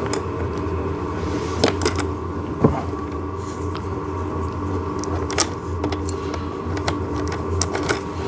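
An 8 mm nut being tightened with a wrench onto a small pivot axle: scattered light clicks and taps over a steady background hum.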